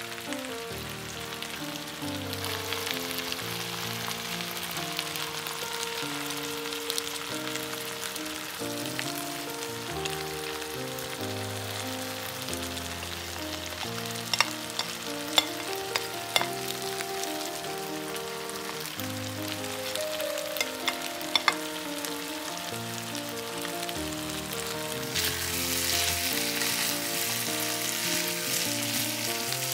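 Diced potatoes, carrot slices and chopped onion sizzling as they fry in a frying pan, with background music. Around the middle come a few sharp taps of a spatula against a plate and the pan as garlic is scraped in, and the sizzling grows louder near the end.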